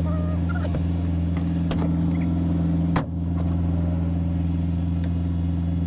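Mazda B-series pickup's engine running steadily while driving, heard from inside the cab. There is one sharp click about three seconds in.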